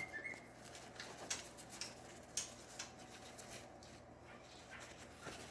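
Faint, scattered light clicks and taps of kitchen food preparation by hand, a few each second, irregular, over a low steady hum.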